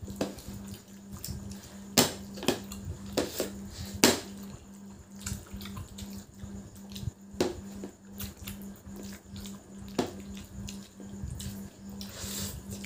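Wet slurping, sucking and lip-smacking of people eating spicy instant noodles straight off their plates with no hands, with a few sharp smacks scattered through, over a faint steady hum.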